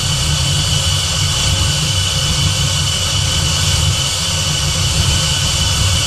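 Supercharged 4.6-litre DOHC V8 from a Terminator Cobra idling steadily, a low even rumble with a steady high whine over it. The engine is being run at idle to burp air out of its cooling system.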